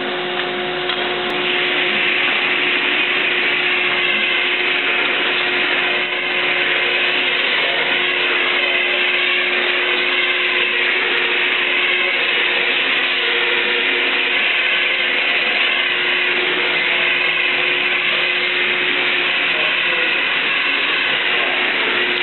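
Rebuilt Dusenbery 815 slitter rewinder running steadily: a continuous machine whir with a steady whine in it. It gets a little louder about a second and a half in.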